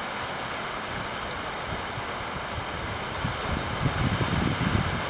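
Heavy rain pouring down in a steady hiss. Wind buffets the microphone with a low, uneven rumble that grows stronger from about three or four seconds in.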